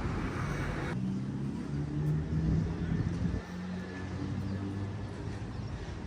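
City street traffic: a hiss of road noise that cuts off about a second in, then a motor vehicle's low engine hum passing close, which stops about three and a half seconds in.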